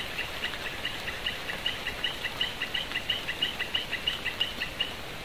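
A small animal's call repeated rapidly, about five short chirps a second, stopping shortly before the end, over a steady hiss of rain and running water.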